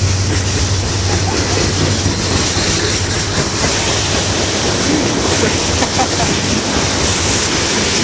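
A train passing close by: a loud, steady rush and rumble of the wheels on the track.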